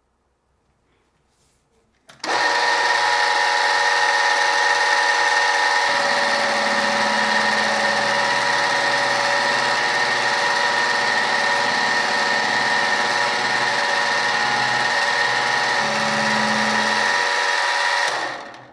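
An electric machine-tool motor starts abruptly about two seconds in and runs steadily with a high gear whine, then spins down near the end.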